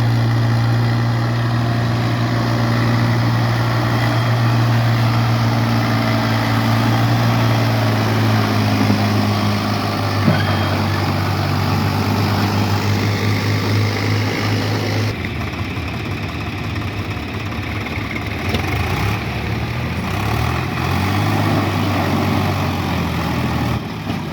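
Diesel tractor engine running steadily with a low, even note. About fifteen seconds in the sound switches abruptly to a different, rougher engine note.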